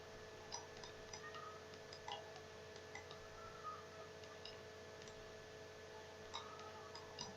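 Near silence with a few faint, scattered computer mouse clicks over a low steady electrical hum.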